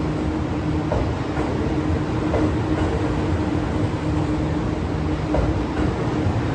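Cassiopeia train hauled by an EF64 electric locomotive, running on the tracks: a steady low rumble with a constant hum and a few faint clicks.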